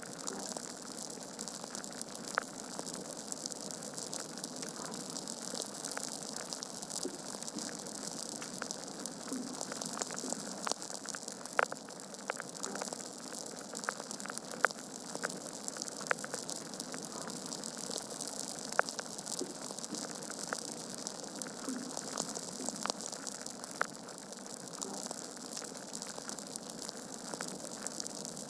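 Wood logs burning in a fireplace, crackling steadily over a soft hiss, with sharp pops scattered throughout and a few louder ones.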